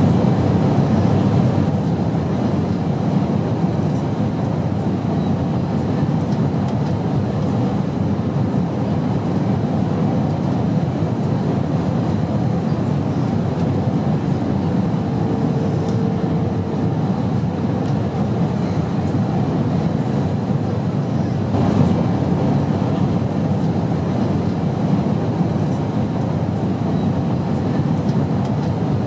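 Steady airplane noise: a continuous low drone with a fainter hiss above it, unchanging throughout.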